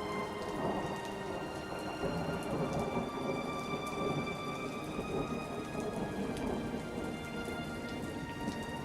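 Steady rain with a long rolling rumble of thunder, over soft held music notes.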